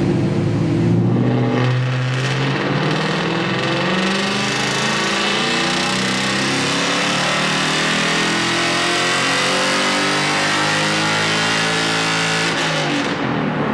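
Ford Mustang GT's V8 running under load on a dyno through an aftermarket axleback exhaust. Its pitch climbs steadily for about ten seconds, then the throttle closes and the revs fall near the end.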